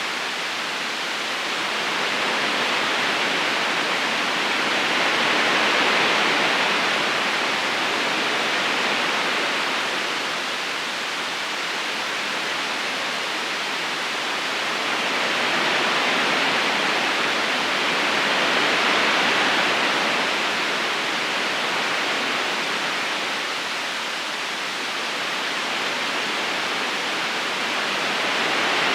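Steady rushing of a river current, an even hiss of water that slowly grows louder and softer every several seconds.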